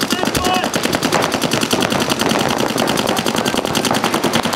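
Paintball markers firing rapid, continuous strings of shots, very evenly spaced from about a second in.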